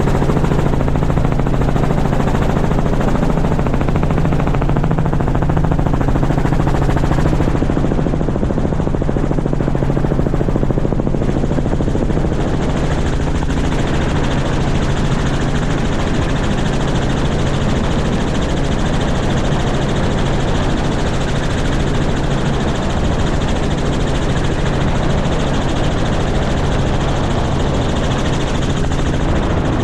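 Helicopter running steadily, a loud, even drone with a constant low tone under it.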